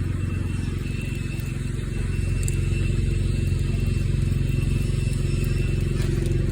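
A steady low engine hum, a motor running at an even idle, growing a little louder about two seconds in.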